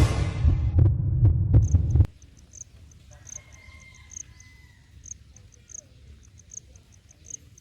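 A heavy low thudding beat with sharp clicks cuts off about two seconds in. It gives way to crickets chirping in short, high, irregular pulses several times a second.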